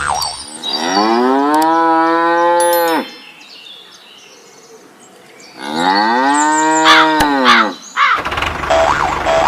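A cow mooing twice, two long calls each rising, holding and then dropping away. Near the end a steady engine hum starts up.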